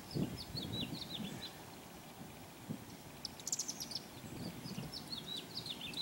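Small birds chirping: repeated quick, high chirps that each drop in pitch, with a brief buzzy trill about three and a half seconds in, over faint outdoor background noise.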